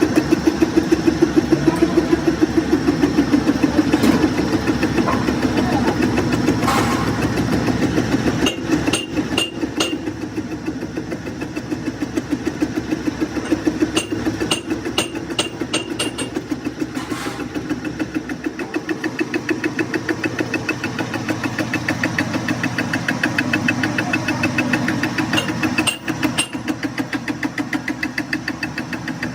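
Metalworking lathe running under load with a fast, even pulse throughout, and scattered sharp metallic ticks over it.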